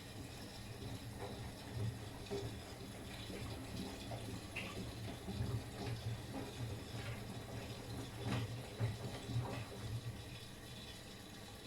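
Miele front-loading washing machine in its wash phase: a steady low hum under irregular swishes of water sloshing in the drum.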